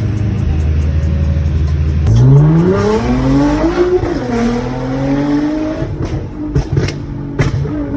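Sports car engine pulling hard at full throttle: the note climbs, drops briefly at an upshift and climbs again. After about six seconds the throttle comes off and the exhaust gives several sharp pops and bangs.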